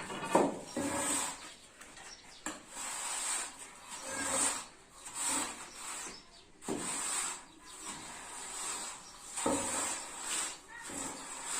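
Repeated rough scraping strokes on a hard surface, each about a second long, with a few sharp knocks between them.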